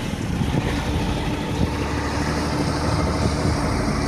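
A vehicle engine running steadily under a dense wash of road and wind noise.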